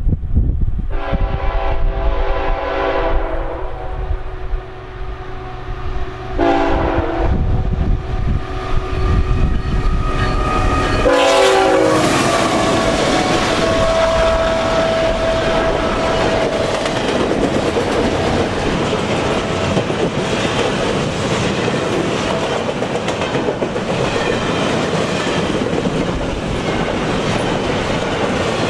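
A CN GE ET44AC diesel locomotive sounds its multi-chime air horn three times: one long blast, then two short ones. Its engine and the double-stack container cars then rumble past close by, with the wheels clattering over the rail joints.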